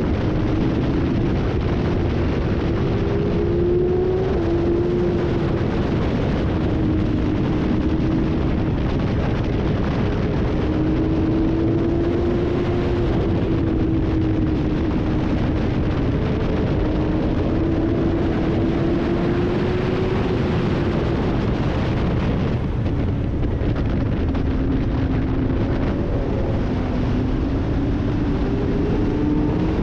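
Sport motorcycle's engine running hard at track speed, heard onboard. Its pitch repeatedly climbs and drops as the bike accelerates and slows through the corners, over heavy wind rush.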